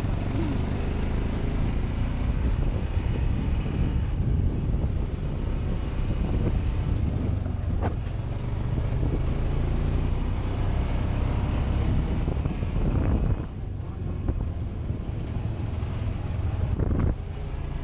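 ATV engine running under way, with wind buffeting the microphone; the engine eases off briefly about 13 seconds in.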